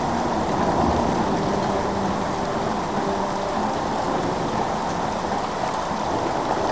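Heavy rain falling in a steady downpour as a hailstorm turns to rain.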